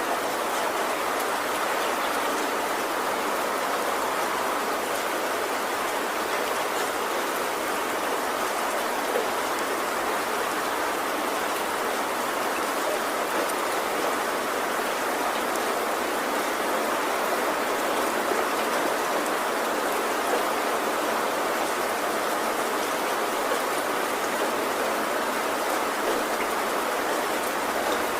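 Heavy rain falling steadily on a tin roof, an even, unbroken hiss of drops.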